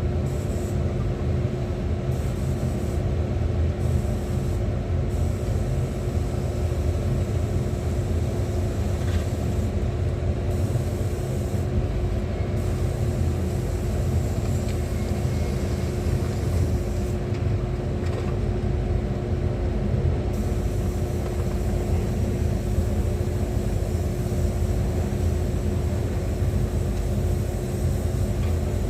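An engine running steadily: a continuous low rumble with a constant hum on top, unchanging throughout.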